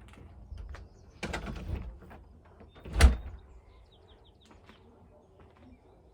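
A door being opened, then shut with a sharp bang about three seconds in, followed by a few faint bird chirps.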